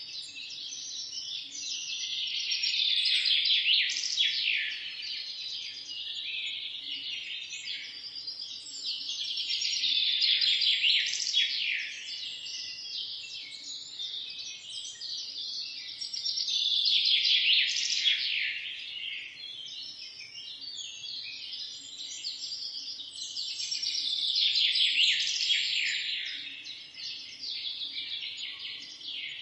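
Many small songbirds chirping and trilling together in a dense chorus. It swells and eases in waves about every seven seconds.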